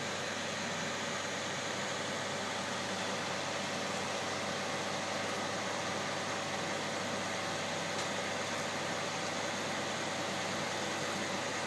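Steady machine hum with an even hiss, unchanging, from a running greenhouse engine.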